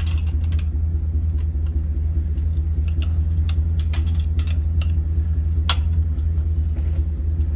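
A vehicle engine idling steadily with a low rumble. Over it come scattered light clicks and taps of a screwdriver and hands on a wire shopping cart's seat frame and its plastic seat flap, the sharpest a little before six seconds in.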